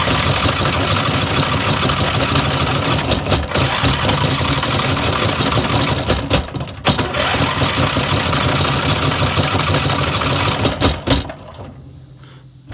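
Small lawn mower engine running, dipping briefly twice, then dying away about eleven seconds in.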